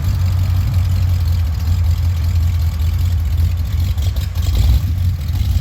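Williams Grove Railroad #52 diesel locomotive's engine running steadily at a low idle, with a brief clatter about four seconds in.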